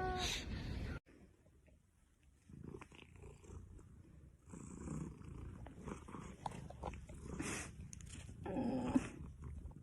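Faint low purring of a pet animal, starting after a sudden cut about a second in, with a louder short animal call near the end.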